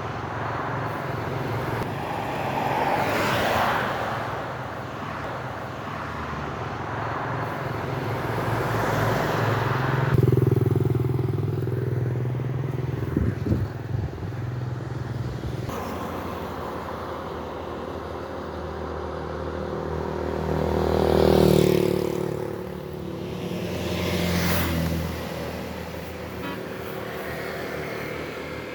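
Road traffic with engines running: several vehicles pass by, each swelling up and fading away, over a steady low engine drone.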